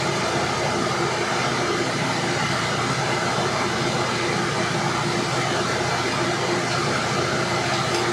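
Forge running: a steady rushing air-blast noise with a faint hum, unchanging throughout.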